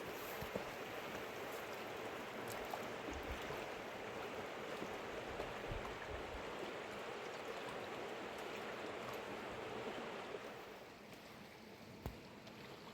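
Mountain river water rushing steadily over rocks, dropping to a quieter flow about ten and a half seconds in. A single sharp click near the end.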